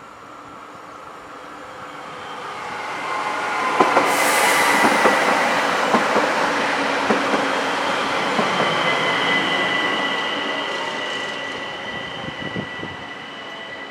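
ÖBB Bombardier Talent electric multiple unit running past on the station tracks. It grows loud over the first few seconds and then fades slowly, with wheels clicking over rail joints and a steady high-pitched whine.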